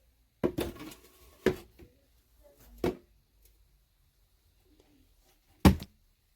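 Four sharp knocks and thumps spread over about six seconds, the loudest near the end, with quiet gaps between them.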